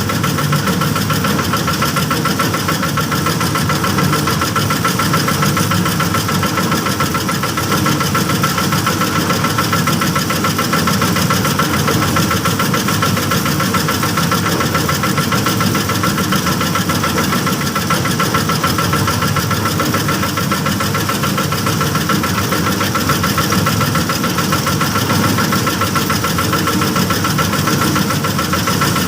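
Small engine running steadily and unchanging, with a steady whine over its noise: the engine of a small bored-pile rig.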